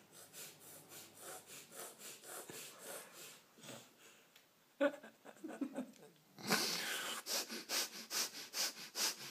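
A person making funny breathing noises: a run of rhythmic huffing, sniffing breaths, faint at first, then after a short pause a few voiced grunts and a louder, quicker string of huffs.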